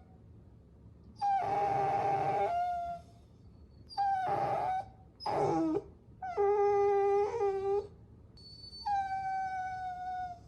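Puppy whining: five high-pitched whines separated by short gaps. The third dips in pitch at its end, and the last, starting about eight seconds in, is the longest at about two seconds.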